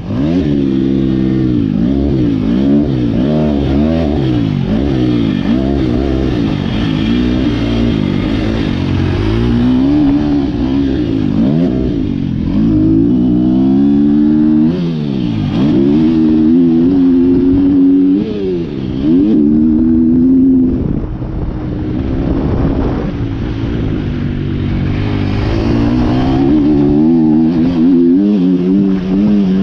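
2023 KTM 250 SX-F's single-cylinder four-stroke engine, through an Akrapovic Evolution Line exhaust, revving hard on a motocross track, heard from the rider's chest. Its pitch climbs and falls every second or two as the throttle opens and closes through the gears, with a few longer drops in the middle.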